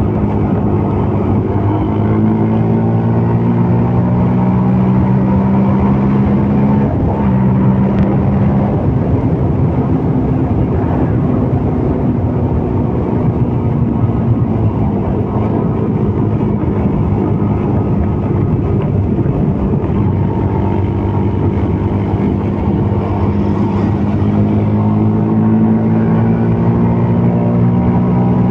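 CFMOTO Papio 125 mini-bike's single-cylinder engine running under way while ridden, its pitch holding steady for stretches and stepping or sliding up and down several times with throttle and gear changes.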